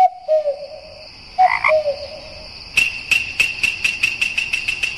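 Frogs calling: a few short, low croaks, then from about halfway through a rapid pulsing call at about five pulses a second over a steady high hum.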